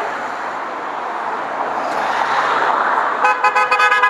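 Background crowd and street noise, then about three seconds in a horn sounds a fast string of short toots.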